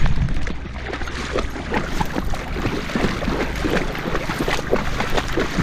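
River water splashing and sloshing around a pitbull wading in the shallows, with a steady low rumble underneath.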